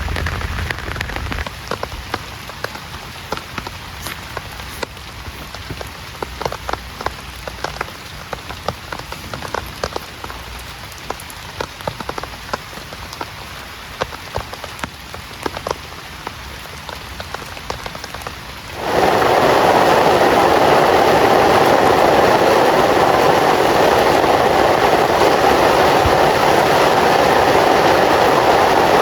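Rain falling, with many separate drops ticking sharply on a surface over a steady hiss. About two-thirds of the way through it abruptly becomes a much louder, dense, even downpour.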